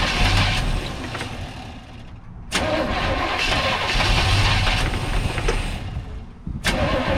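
Starter cranking the supercharged engine of a 1952 Mercury in repeated bursts without it catching: one burst fades out about two and a half seconds in, a second runs to about six seconds, and a third starts near the end. The battery is weakening, with only a couple more tries left in it.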